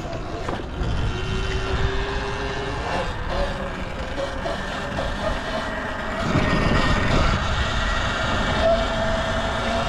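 Riding noise from an electric dirt bike on the move: a steady rush of wind over the microphone with a faint motor whine, growing louder about six seconds in as the speed picks up.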